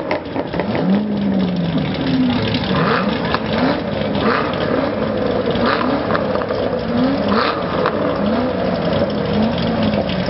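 Chevrolet Corvette V8 engines revved over and over in quick blips, the pitch rising and falling about once a second over a steady loud engine noise.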